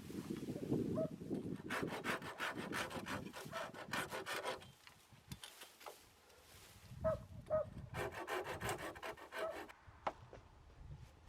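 Hand saw cutting bamboo in two runs of quick back-and-forth strokes, with a short pause between them.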